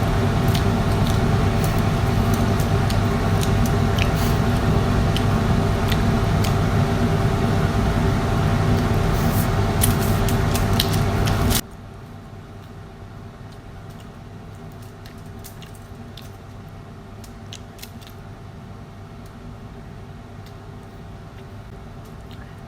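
A steady mechanical hum, with small clicks and crackles from eating prawns with the hands over it. The hum drops suddenly to a much lower level about eleven and a half seconds in, and the clicks go on.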